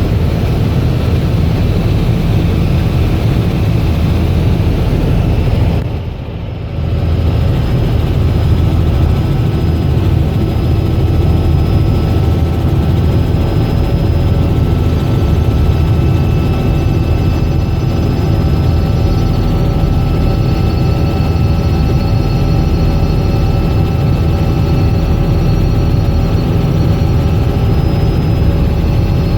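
Robinson R66 helicopter in flight: a steady, loud drone from its rotors and Rolls-Royce RR300 turbine, with thin, steady whining tones above it. About six seconds in, the sound briefly drops and dulls, then returns.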